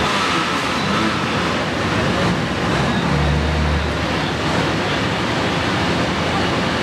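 Pulling tractor engine under load, a loud, steady roar.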